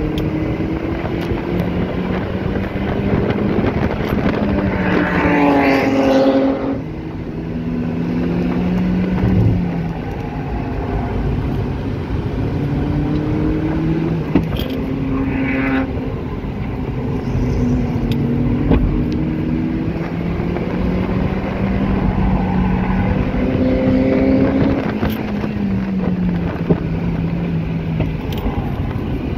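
A stock Mazda MX-5 NB's 1.8-litre four-cylinder engine, heard from the open-top cockpit under track driving. It climbs in pitch under acceleration and drops sharply about six and a half seconds in, then rises and falls again through the corners, over steady wind and road noise.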